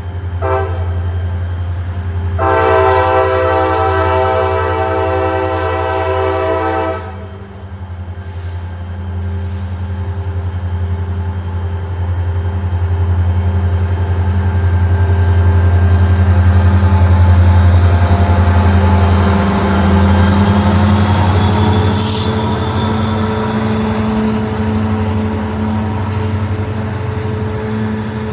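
Diesel locomotive passing with its air horn: a short toot, then one long blast lasting about four seconds. After the horn, a steady low engine rumble and rolling rail noise grow louder as the train goes by.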